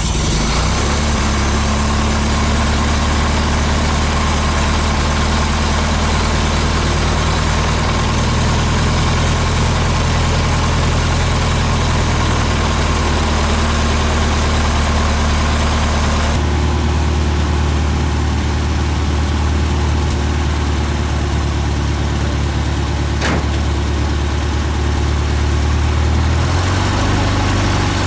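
Engine of a 1951 Commer light truck idling steadily, running again after about twenty years laid up in a shed. Its note shifts slightly near the end.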